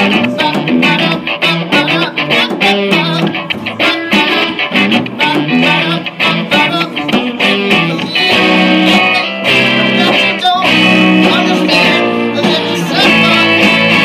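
Live band music led by guitar, with strummed chords that are held longer in the second half.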